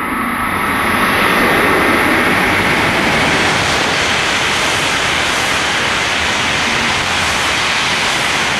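Tohoku Shinkansen bullet train passing at full speed: a loud rush of air and wheels on rail that swells in over about a second, holds steady for several seconds, and begins to fade at the very end.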